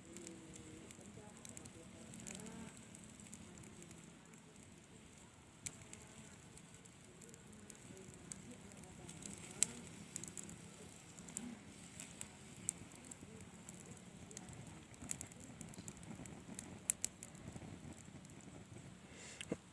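Grilling fire crackling, with scattered sharp pops over a faint hiss as the birds roast. It ends on the start of a loud cough.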